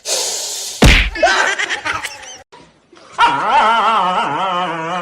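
A dog's long wavering howl, starting about three seconds in. It comes after a sharp knock about a second in and a few short pitched yelps.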